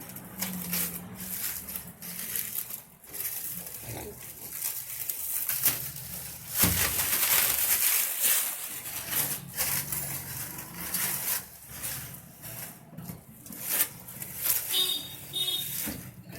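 Handling noises from unpacking a wet-and-dry vacuum cleaner: irregular rustling and light knocks of packaging and plastic parts, with a longer, louder rustle about seven seconds in.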